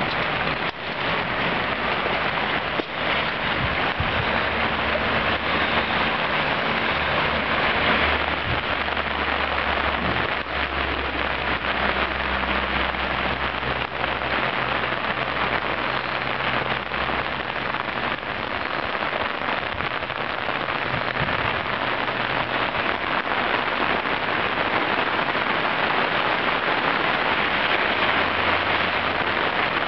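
Steady rush of water, with a faint low hum underneath through the middle part.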